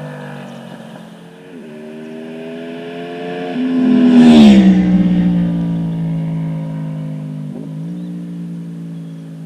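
Honda VFR800's V4 VTEC engine through an SC Project aftermarket exhaust, a motorcycle flyby: the engine note dips at a gear change, climbs as the bike accelerates toward the microphone, is loudest about four seconds in with the pitch dropping as it passes, then fades away, dipping again at another shift near the end.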